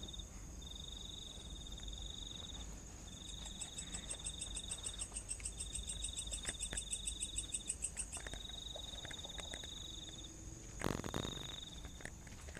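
Night insects: crickets trilling in repeated bursts of about a second and a half with short gaps, over a steady high-pitched insect drone, with a faster pulsing chirp joining in the middle. Near the end a single loud thump or scuff.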